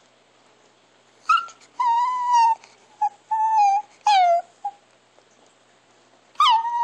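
Chihuahua whining: a run of high, drawn-out whines starting about a second in, some held steady and some falling in pitch at the end. After a pause, another whine comes near the end.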